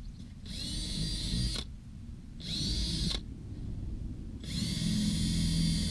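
Power drill boring holes into the rubber of flat trailer tires, run in three spurts that each spin up to a steady whine, the last one longer.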